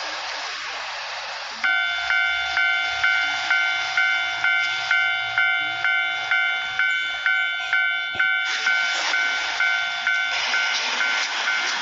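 Japanese railroad crossing warning bell starts ringing about a second and a half in, an even, repeating ding at about two strokes a second, over a steady hiss that is heard alone before it starts.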